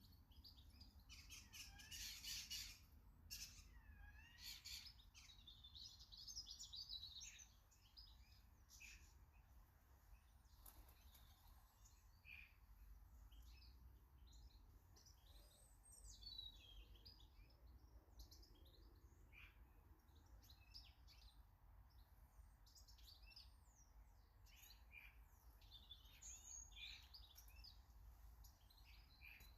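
Several small garden birds chirping and singing in short, overlapping calls and warbling phrases, busiest in the first few seconds and again near the end, over a faint low background rumble.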